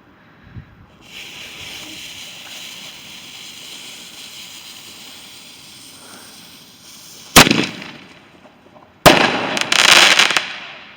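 Firework lit: a steady hiss for about six seconds, then a sharp bang, and a second bang about two seconds later that breaks into loud crackling. The sound cuts off suddenly at the end.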